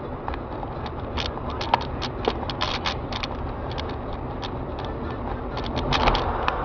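Steady low rumble of a vehicle on the move, with irregular sharp clicks and creaks, several a second, over it.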